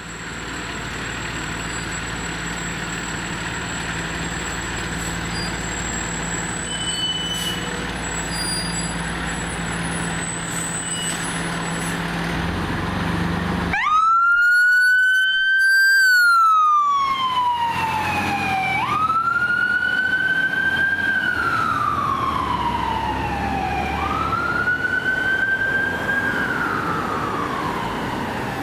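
A KME Predator fire engine's diesel engine runs steadily. About halfway through, its siren starts wailing, each cycle rising quickly and falling slowly, repeating about every five seconds.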